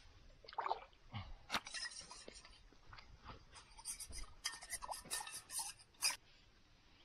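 A border collie crunching dry food, with a run of irregular crisp crunches and clicks that stops about six seconds in.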